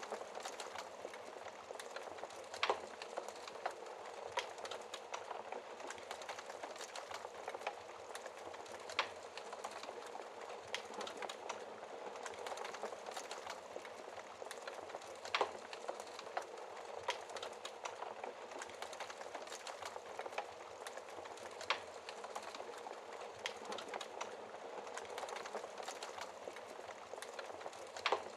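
Wood fire crackling in a fireplace: a steady fine crackle with scattered sharp pops, a few of them louder, about every six seconds.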